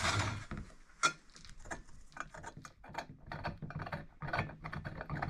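A 12 mm steel bolt being screwed into a nut welded onto a horseshoe, the metal threads and parts clicking and ticking irregularly, about two or three clicks a second.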